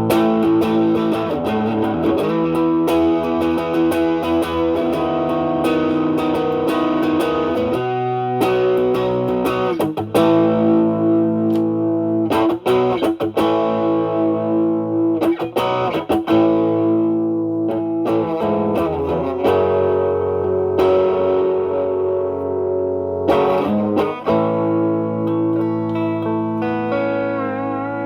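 Stratocaster with single-coil pickups played through an Ibanez Tube Screamer Mini overdrive, drive knob at 3, into a Marshall Valvestate amp's clean channel: mildly overdriven notes and chords. The notes ring and sustain, broken by picked attacks and strums.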